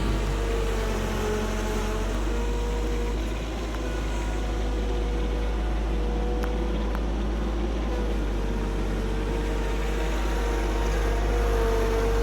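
Tractor engine running steadily under load, with a steady low rumble and a whine that wavers slightly in pitch.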